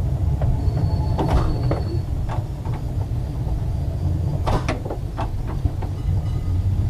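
Ex-Liverpool Corporation double-truck electric tram 869 running slowly on the first power notch round a curve on a slippery, leaf-covered rail: a steady low rumble with irregular knocks and clunks, and a brief thin high squeal about a second in.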